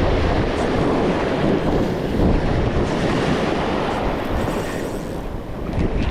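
Wind buffeting the microphone over ocean surf washing in, a steady rumbling rush.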